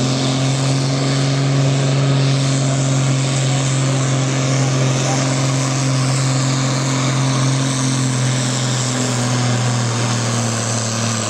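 Diesel engine of a pulling tractor running loud at steady revs, a constant low drone.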